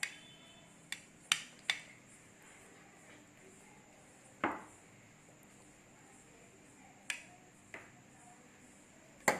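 A metal utensil clinking and tapping against dishware, about eight separate sharp knocks spaced irregularly.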